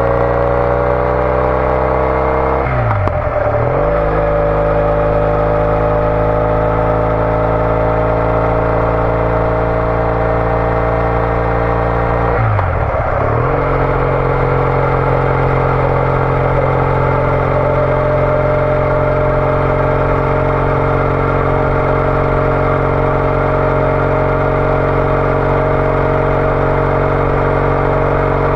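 Triumph Bonneville T214's air-cooled parallel-twin engine through a TOGA aftermarket exhaust, under way. The engine pitch climbs, breaks for a gear change about three seconds in, climbs again, shifts up once more about thirteen seconds in, then holds a steady cruising note.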